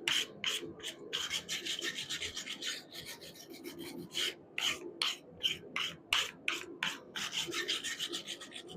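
Forge scale being scraped off a freshly forged wrought iron bar: quick back-and-forth scratchy strokes, about three a second, running together into continuous scrubbing in two longer stretches.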